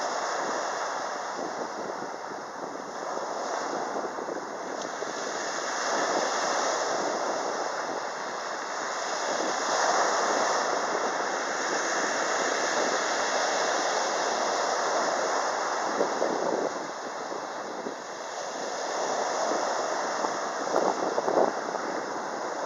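Black Sea surf washing onto the beach, swelling and ebbing every few seconds.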